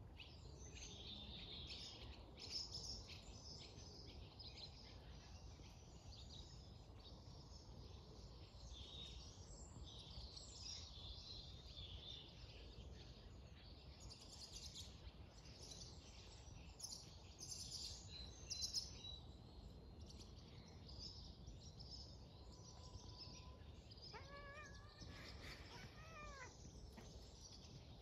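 Faint songbird chirping and twittering throughout. About three-quarters of the way in comes one short call with a pitch that bends up and then falls away.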